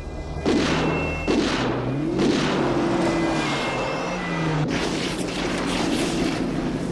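Car-chase sound effects from a film soundtrack: car engines revving, their pitch rising and falling, with several sudden loud bursts of noise and some music underneath.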